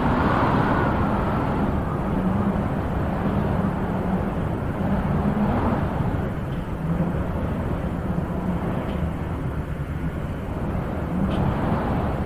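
Wind blowing steadily, swelling in gusts three times: near the start, in the middle and near the end.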